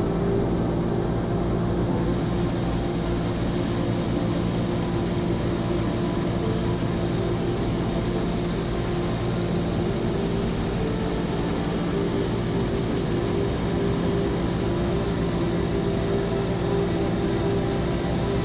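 Seaplane's propeller engine droning steadily, a constant low hum with no change in pitch.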